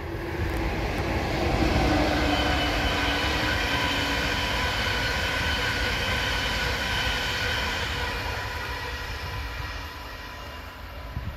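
ICE 2 (class 402) high-speed train passing at speed: rail and wheel noise with a steady whine on top. It is loudest about two seconds in, then fades as the train pulls away.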